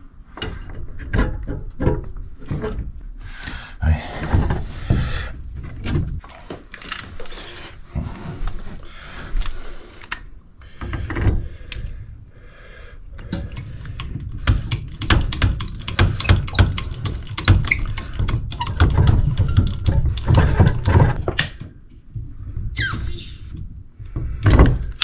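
Irregular knocks, clicks and clatter of hands working with plumbing tools and copper pipe fittings at close range, with a short rising squeak near the end.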